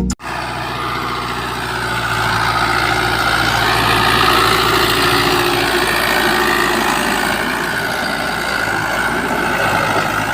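A motor running steadily with a slightly wavering pitch.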